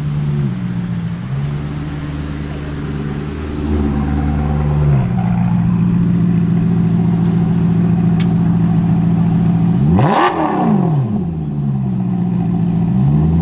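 Car engine idling, its pitch stepping a little, then one quick rev about ten seconds in that rises and falls back to idle.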